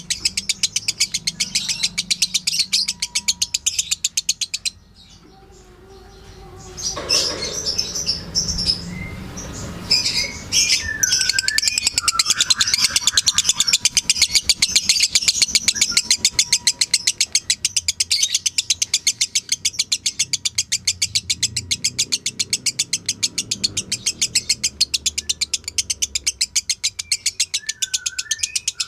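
A lovebird singing its long, rapid chattering song (the "ngekek" used as masteran): a very fast run of short high chirps. It pauses for about two seconds near five seconds in, then starts again and keeps going.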